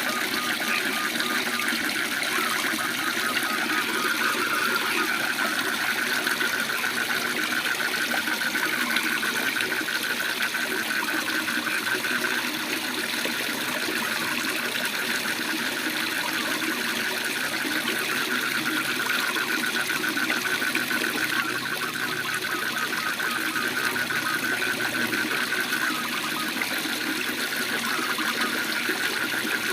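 Waterfall rushing steadily, with frogs calling over it in a continuous rapid, pulsing trill.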